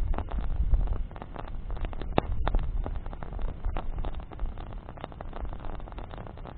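Bonfire burning with a steady low rumble, strongest in the first second, and frequent sharp crackles and pops, two of them louder about two seconds in.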